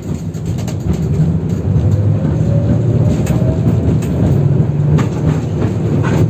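KTM 71-608KM tram heard from on board as it pulls away, with a faint rising motor whine. The wheels rumble on the rails, and a few sharp knocks near the end come from rail joints.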